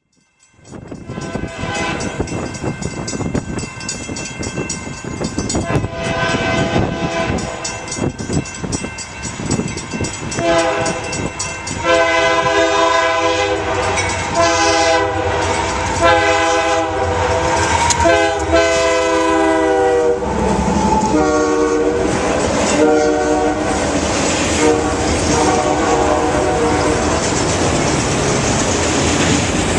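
Union Pacific freight train led by GE AC4400CW locomotives passing at speed, its multi-chime air horn sounding repeatedly, with loud blasts from about a third of the way in. Wheels clatter and rumble over the rails throughout.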